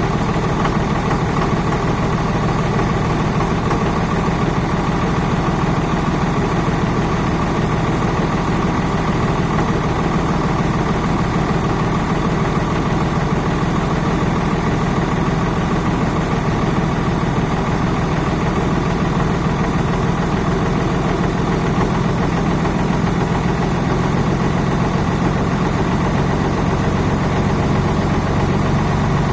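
1999 Dodge Ram 2500's 5.9-litre Cummins inline-six turbo diesel idling steadily, still cold after a start at 18 °F.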